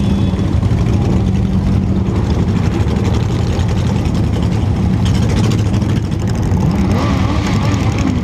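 Motorcycle engine running during a ride, a steady low drone with road noise, its pitch shifting near the end.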